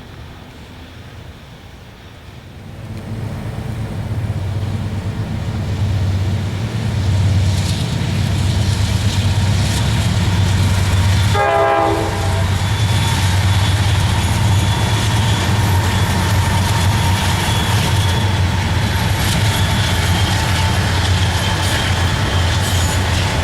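Norfolk Southern freight train led by a GE Dash 9 diesel locomotive approaching and passing. The locomotive's engine and the rolling train grow loud from about three seconds in and stay loud, with a brief horn blast about halfway through.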